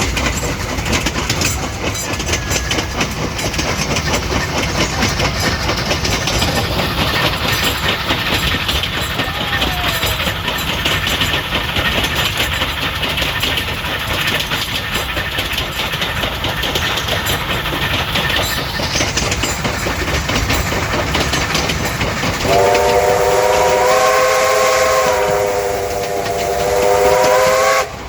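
Heritage train running, wheels clattering over the rails with a steady rumble. About 22 seconds in, the locomotive whistle sounds one long chord of several notes for about five seconds, lifting slightly in pitch just before it cuts off.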